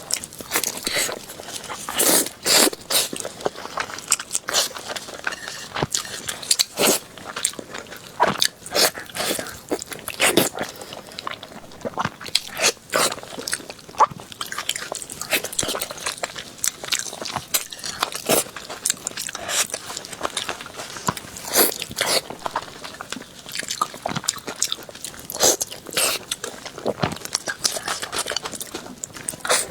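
A person biting and chewing crunchy food close to the microphone, in irregular loud crunches with quieter chewing between them.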